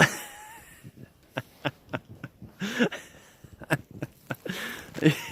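A person falling backward into deep, fresh snow: a soft crunching thud right at the start, then scattered crunches and swishes of snow as arms and legs sweep out a snow angel. Two brief voice-like sounds come in the middle and near the end.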